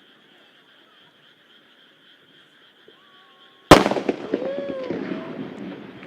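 A single aerial firework shell bursts with one sharp, loud bang a little over halfway in. Its boom echoes and fades over the next two seconds. Before it there is only a faint, steady background.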